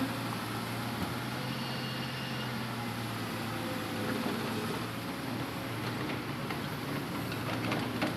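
Hitachi Zaxis 200-5G excavator's diesel engine running steadily while working, with a few light knocks in the last couple of seconds.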